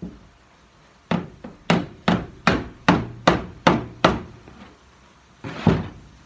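Hammer striking the steel quarter panel of a 1965 Comet: about eight sharp blows at an even pace of roughly two and a half a second, working a crease out of the sheet metal. One duller, longer knock follows near the end.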